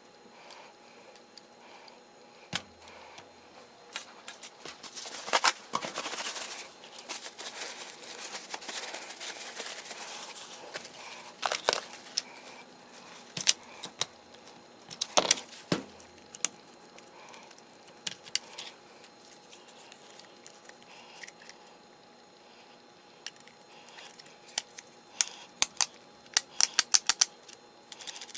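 Small clicks, clinks and rustles of a cordless drill's plastic housing and small metal parts being handled and taken apart on a workbench. A longer rustling stretch comes several seconds in, and a quick run of clicks comes near the end.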